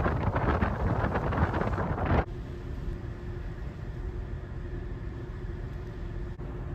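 Strong wind buffeting the microphone in a snowstorm, then an abrupt cut about two seconds in to a quieter, steady low rumble with a faint hum.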